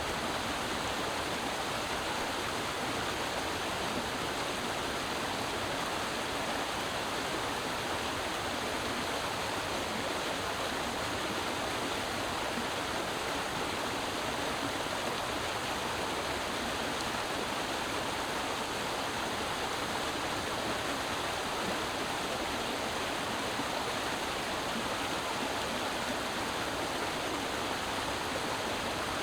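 Creek water flowing and splashing over rocks in a steady, unbroken rush.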